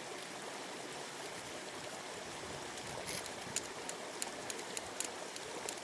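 River water running steadily over a stony bed, with scattered light clicks in the second half.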